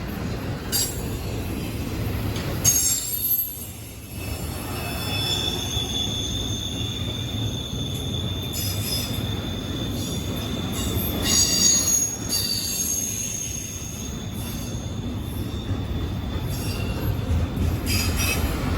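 A train rolling past with its steel wheels squealing on the rails. High squeals come and go over a steady low rumble, with one squeal held from about five to twelve seconds in.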